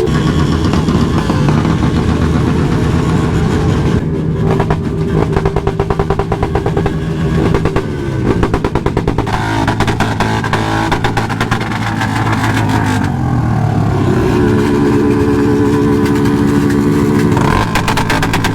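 Motorcycle engines running and revving, the pitch rising and falling, with a stretch of rapid pulsing in the middle.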